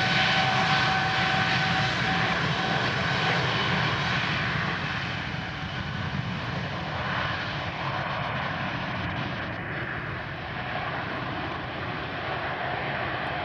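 Rolls-Royce Trent 1000 jet engines of a Boeing 787-9 climbing away after takeoff: a steady rushing roar with a high whine of fan tones that fades out a few seconds in. The sound slowly grows fainter and duller as the airliner recedes.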